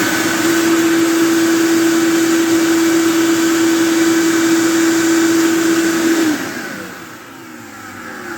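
Big bucket-style shop vacuum running at full power on a test run after cleaning, with a steady whine. About six seconds in it is switched off and the motor winds down, its pitch falling.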